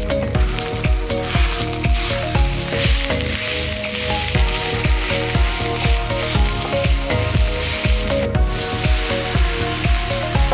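Diced onions, then beef mince, sizzling on a folding Biji Barbi steel hotplate over campfire coals. Background music with a steady beat plays under the sizzle, and the hiss drops out briefly about eight seconds in.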